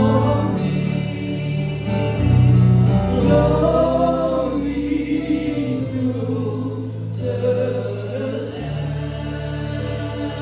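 Gospel worship music: a group of voices singing over a steady low keyboard or bass accompaniment.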